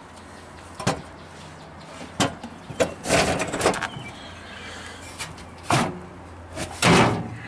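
Old 1950s Firestone refrigerator being handled: a series of clunks, knocks and short scrapes from its door and latch, the loudest clunk about seven seconds in.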